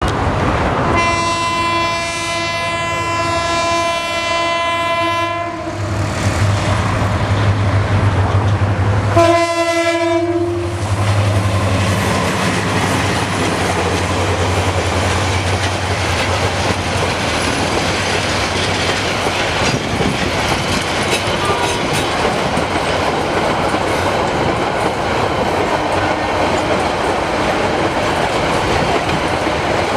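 Subarna Express passenger train passing: the locomotive horn sounds one long blast of about five seconds, then a shorter blast about nine seconds in, over the low drone of the diesel locomotive. After that comes the steady rumble and clickety-clack of the coaches rolling by.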